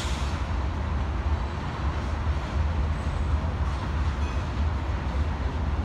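BNSF freight train of grain hopper cars rolling past with a steady low rumble.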